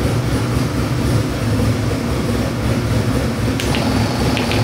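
Ford 427 Windsor small-block V8 with Borla stack injection idling steadily on an engine dyno, unloaded. A few light clicks near the end.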